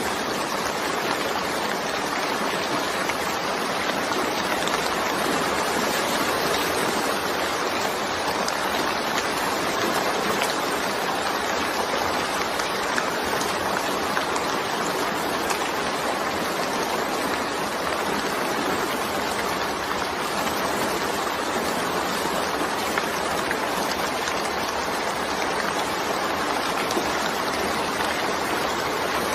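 Steady heavy rain: an even, unbroken hiss with no single drops standing out and no thunder.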